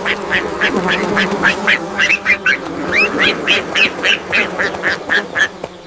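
A duck calling in a quick series of short calls, about four a second, over a steady low hum.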